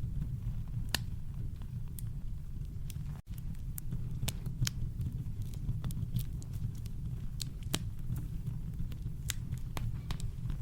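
Wood campfire crackling: scattered sharp pops and snaps over a steady deep rumble, which briefly cuts out about three seconds in.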